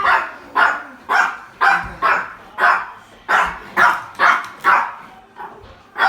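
A dog barking repeatedly in a steady run of single barks, about two a second.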